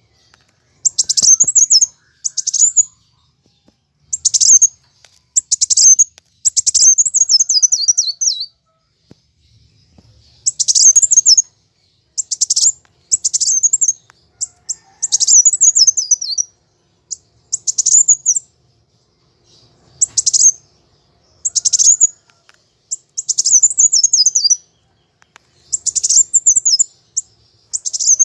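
Kolibri wulung sunbird singing in fighting mode: repeated bursts of fast, high chips and falling trills, one burst every second or two.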